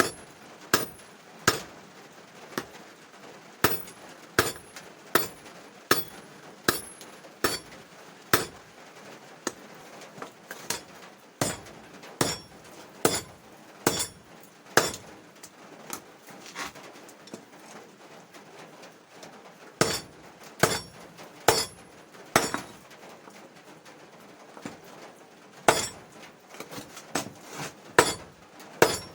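Hand hammer striking steel being forged on an anvil. Sharp, ringing metallic blows come about one every three-quarters of a second, in runs broken by two pauses of about three seconds.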